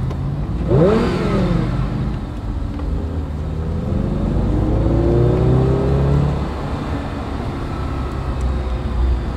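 Audi convertible's engine heard from inside the open cabin, over steady wind and road noise. A short rise and fall in pitch comes about a second in. Then the engine pitch climbs for a few seconds as the car accelerates and drops back about two-thirds of the way through.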